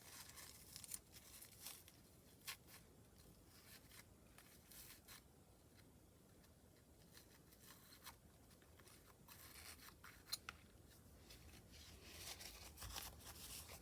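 Near silence with faint rustling and small clicks of paper kitchen towel being pushed and stuffed into a small hollow bird ornament.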